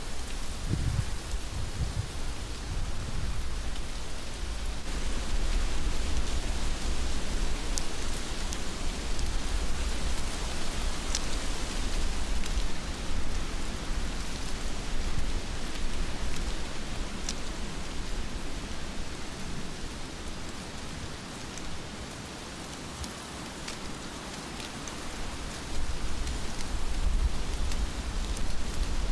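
Heavy rain falling steadily, with occasional sharp close drip ticks. Low rumbling comes in a second or two in and again near the end, and the rain eases slightly for a few seconds past the middle.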